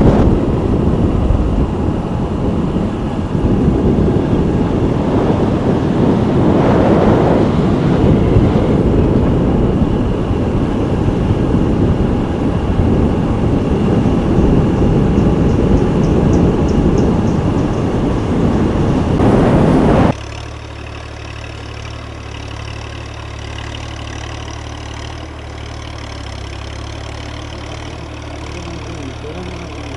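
Tractor engine running, buried under loud, rough rumbling noise for about the first twenty seconds. Then it cuts suddenly to a quieter, steady engine hum.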